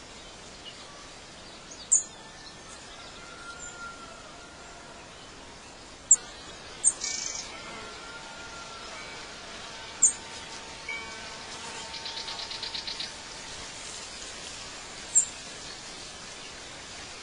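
Birds calling outdoors: sharp, high chirps every few seconds, short whistled notes, and a fast trill about twelve seconds in, over a steady faint hiss.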